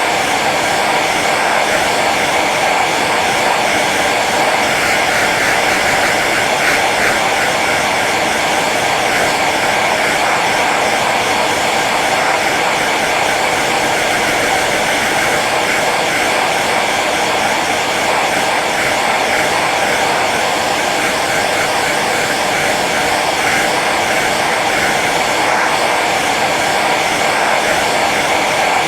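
Hair dryer running steadily on its low setting: a constant whoosh of blown air with a faint motor whine, unchanging throughout.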